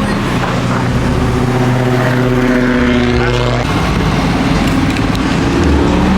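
Car engine held at a steady pitch. About three and a half seconds in it breaks off into a rougher, noisier engine rumble.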